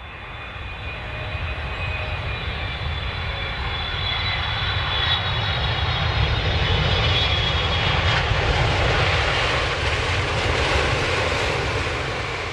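A steady engine drone with a high whine above it, fading in at the start and fading out near the end.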